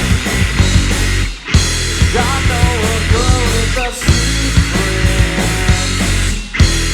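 Live rock band playing: electric guitar, bass and drum kit, with a voice singing over them from about two seconds in. The music drops out for a moment three times, about a second and a half in, at four seconds and near the end, like short stops in the song.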